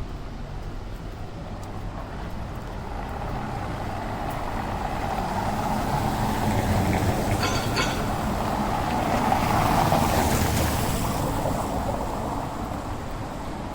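A motor vehicle passes by on a rain-wet city street: its engine and tyre hiss swell over several seconds and then fade away. A brief high squeak sounds about halfway through.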